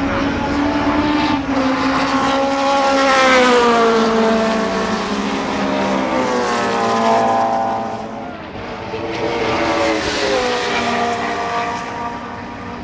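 Racing car engines running hard on track as cars go past, each engine note dropping in pitch as it passes; about three passes, the loudest a few seconds in.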